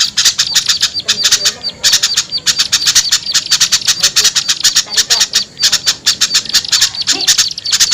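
Small birds' noisy, agitated chatter played as a bird-lure recording: a fast, unbroken run of harsh chips, about eight to ten a second.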